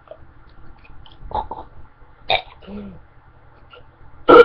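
A man gagging, coughing and clearing his throat in a few short bursts, the loudest just before the end, as he retches on dry dog food.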